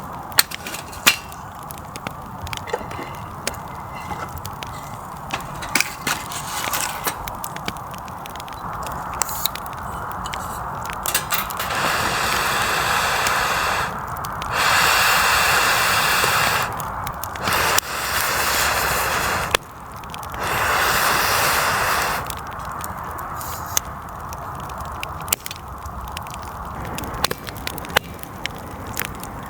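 Wood campfire crackling, with sharp pops and snaps scattered throughout. Around the middle come four hissing rushes of about two seconds each, the loudest sounds here.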